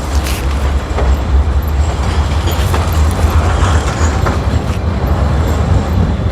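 City tram passing through a busy street intersection amid road traffic: a steady low rumble of wheels and motors.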